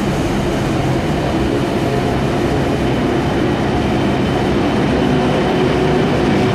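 A Sydney Trains K-set double-deck electric multiple unit running through the station without stopping: a steady, loud rolling noise of wheels on rail with a low motor drone.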